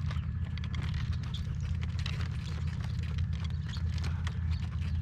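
Wind buffeting the microphone in a steady low rumble, with a horse's hooves clip-clopping at a walk as scattered clicks above it.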